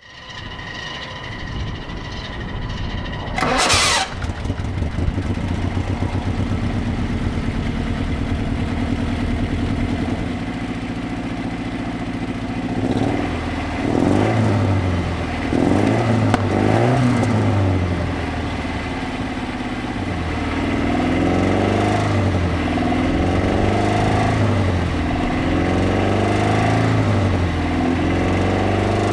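A 1967 Alfa Romeo Giulia's twin-cam four-cylinder engine is cranked, catches with a loud burst about four seconds in, and settles into a steady idle. It is then revved and let fall a few times in the middle, and blipped repeatedly near the end.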